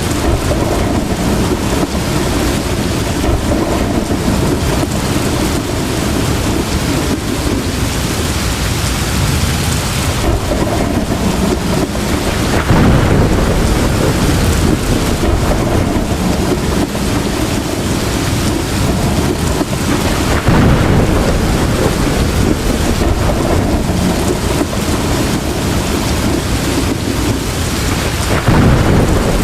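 Heavy rain falling steadily, with rolls of thunder swelling in three times.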